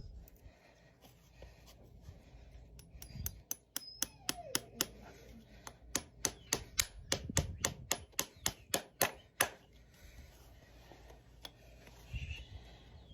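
A quick run of about twenty sharp metallic taps, roughly three a second, from farrier work on a hoof; they start a few seconds in and stop abruptly shortly before the end.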